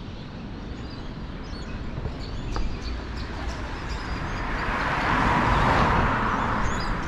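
A vehicle passing on the road, building to its loudest about five to six seconds in and then easing, over a steady low rumble of wind on the microphone.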